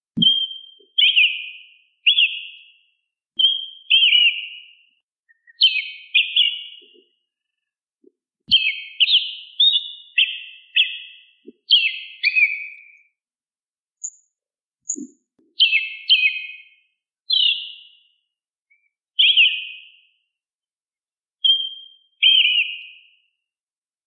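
A bird singing in short, clear whistled phrases, one after another about every second, with sliding notes and brief gaps of silence between them.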